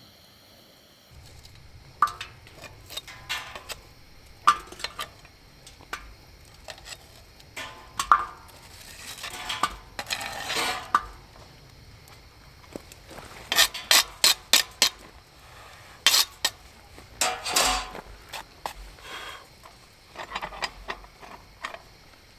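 Metal cooking utensils and cookware clinking and scraping against each other: scattered sharp clinks, a scraping stretch about ten seconds in, and a quick run of about five clinks just past the middle.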